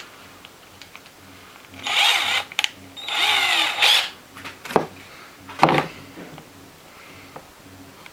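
Power drill run in two short bursts, the first about half a second and the second nearly a second. Two sharp knocks follow.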